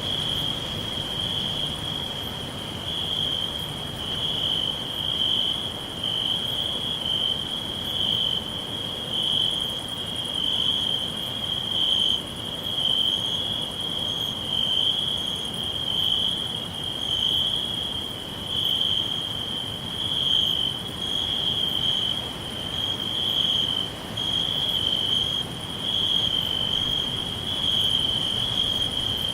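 Crickets chirring in a continuous high-pitched trill that swells and fades in a slow, even pulse about once a second, over a faint steady background hiss.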